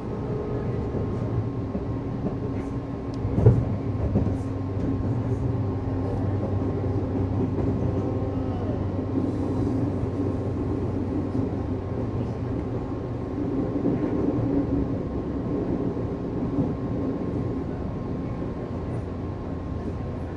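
Inside a JR East 211 series 3000-subseries electric multiple unit (field-added excitation control) under way: steady running noise of wheels on rail with a low motor hum. A single sharp knock sounds about three and a half seconds in.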